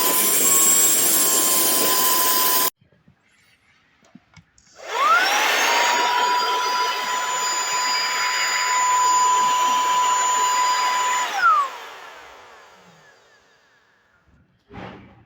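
Cordless handheld car vacuum with a brushless motor running with a high steady whine. It stops abruptly, is switched on again a couple of seconds later with the pitch rising as it spins up, runs about six seconds, then is switched off and whines down, fading out.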